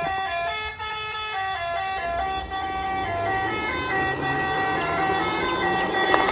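A toy vehicle's electronic sound chip playing a simple beeping tune, its notes stepping up and down a few times a second, with a rough whirring noise underneath through the middle.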